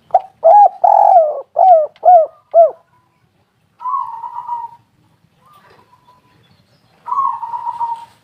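Spotted dove cooing: about six loud, short coos in the first three seconds, each rising then falling in pitch, then two fainter, buzzier phrases around four seconds in and near the end.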